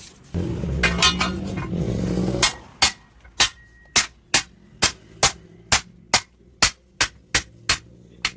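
A loud rumbling noise for the first two seconds, then a hammer striking the steel lock ring of a truck tyre rim, driving it into its seat. The strikes are sharp, metallic and ringing, about two to three a second.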